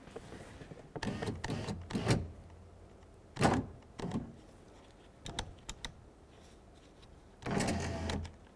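Power window regulator motor in a Jeep Grand Cherokee front door running in short spurts from the switch, raising the regulator toward the glass. It runs briefly about a second in and again near the end, with light clicks and knocks of handling in between.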